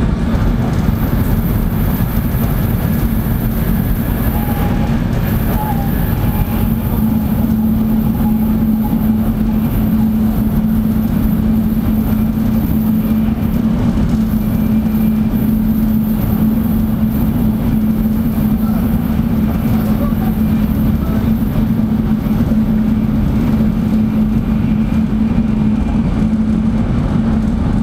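Tokaido Shinkansen running at speed, heard inside the passenger cabin: a steady low rumble with a constant hum.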